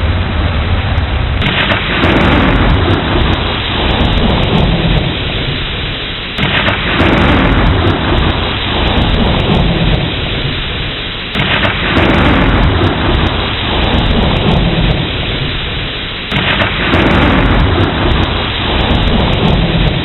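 Steady rain with rolling thunder: four claps about five seconds apart, each starting suddenly and fading away.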